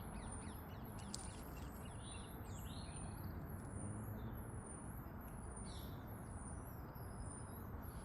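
Small songbirds chirping in short, scattered calls, most in the first few seconds and again near the end, over a steady low background rumble.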